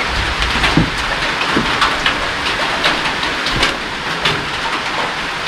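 Steady rain, fairly loud, with many short sharp ticks of drops scattered through it.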